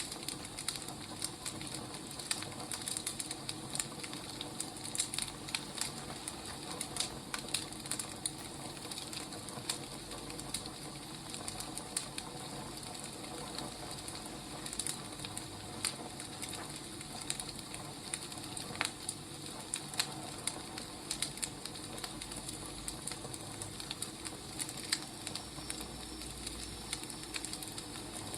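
Wood fire burning, with a steady hiss and irregular sharp crackles and pops of firewood.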